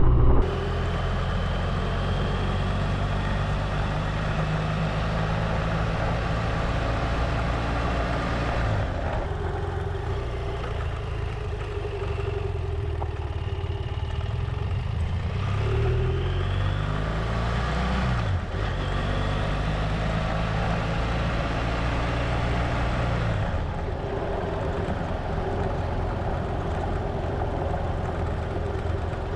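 A BMW F800GS's parallel-twin engine running under way, with wind and road noise. The engine note holds steady, then shifts in pitch a few times, rising and falling quickly about two-thirds of the way through.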